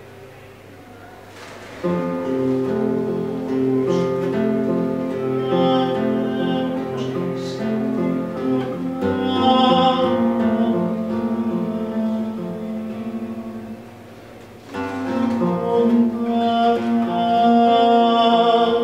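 Acoustic song played live, led by guitar, with long held melody notes over it. The music comes in strongly about two seconds in, dies away to a brief lull about three-quarters through, then starts again.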